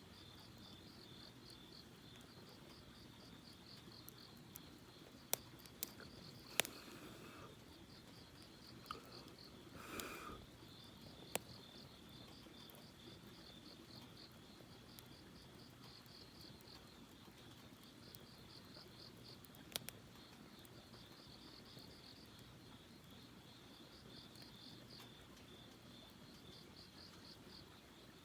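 Crickets chirping in a high, pulsing trill that pauses now and then, with sharp pops from a campfire's burning wood every few seconds, the loudest around six to seven seconds in and near ten seconds.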